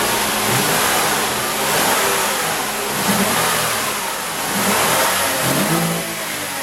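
Lexus IS250's 2.5-litre V6 engine running and being revved several times, its pitch rising and falling with each blip of the throttle, then settling back toward idle.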